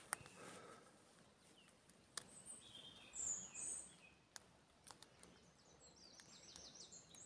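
Faint songbird calls: a few short high chirps about three seconds in, then a quick run of high notes near the end, with a few light clicks in between.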